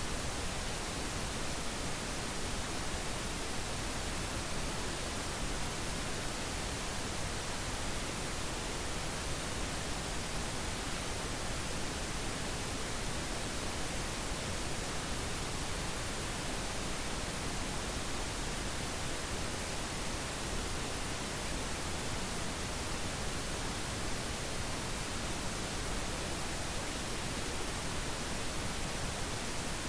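Steady, unchanging pink noise: an even electronic hiss spread across the whole range from low rumble to high hiss.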